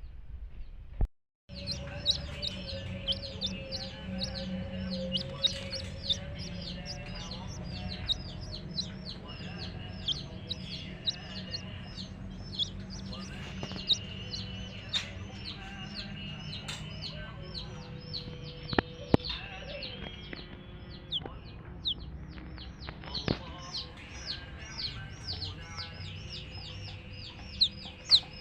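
A group of baby chicks peeping continuously: many short, high, downward-sliding peeps overlapping at several per second, over a steady low hum, with a few sharp clicks. The sound drops out briefly about a second in.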